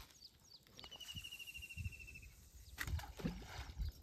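Wild birds calling: short downward chirps, then a fast, even trill on one pitch lasting about a second and a half. A few faint knocks come near the end.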